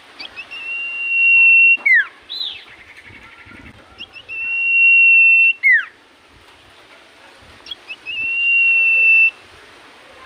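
Common iora (cipoh) singing: three long, steady, high whistles, the first two ending in a quick falling note, with a short run of quicker notes between the first two.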